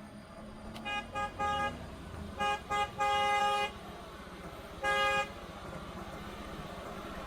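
Vehicle horn honking in a string of short toots, with one longer blast about three seconds in and a final toot about five seconds in.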